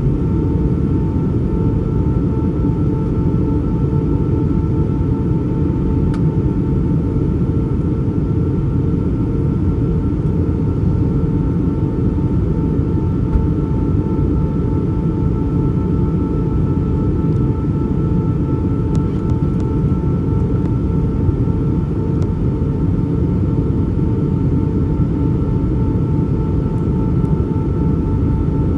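Steady in-flight cabin noise of an Airbus A320: a deep, even rush of engines and airflow, with two faint steady higher tones running through it.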